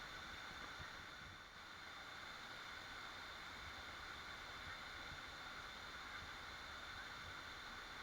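Waterfall: the steady rush of falling water, an even hiss without breaks.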